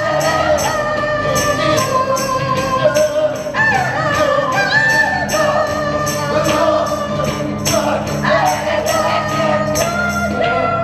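Live folk song: singing in long, wavering notes over a steady tambourine beat. The tambourine stops near the end.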